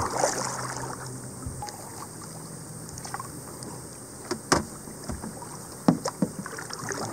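Kayak paddling: paddle strokes dipping and splashing in the water, with a few sharp knocks about halfway through and again near the end.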